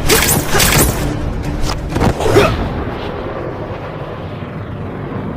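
Action sound effects: a few loud booms and whooshes in the first couple of seconds, then a long fading rumble.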